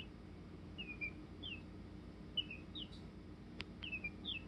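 A chicken peeping: short, high, falling chirps repeated about twice a second, with two sharp clicks a little past the middle.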